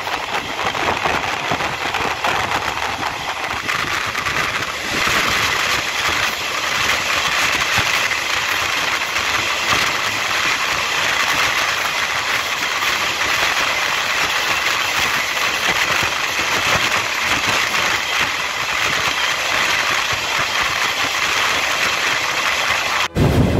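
A diesel-hauled passenger train running through a tunnel, heard from inside a coach with open windows: a loud, steady roar of the wheels and locomotive engine thrown back off the tunnel walls. It breaks off abruptly near the end.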